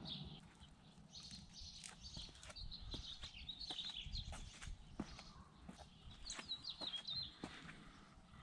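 Faint outdoor birdsong: scattered short, high chirps and quick warbles, with a few soft clicks in between.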